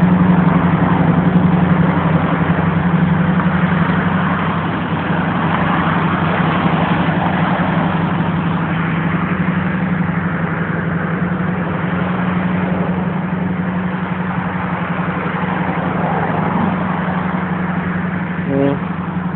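Carbureted 350 V8 in a 1984 Camaro Z28 idling steadily through its stock exhaust while warming up after a cold start on an automatic choke. The idle eases slightly a few seconds in.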